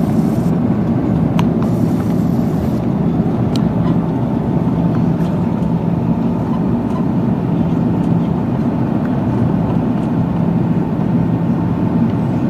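Airbus A330 jet engines and rushing air, heard as a steady loud noise with a low hum inside the passenger cabin. A faint steady whine joins about halfway through.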